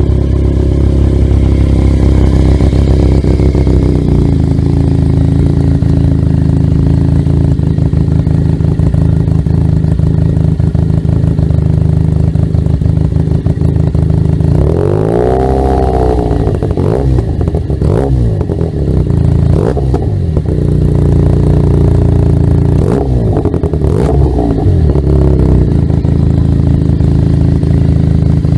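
Benelli TNT300's parallel-twin engine running through an aftermarket exhaust, idling just after starting. About halfway through it is revved once, rising and falling back, and then blipped several more times.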